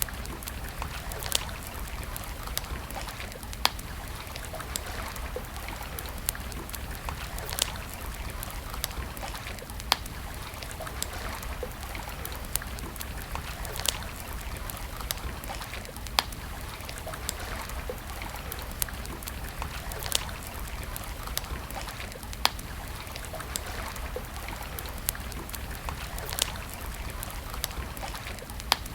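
Wood campfire crackling, with sharp pops every second or two, over a steady rush of flowing river water.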